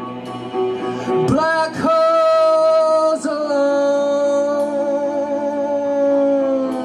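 Live band music: a male voice swoops up in pitch about a second and a half in, then holds one long note over guitar.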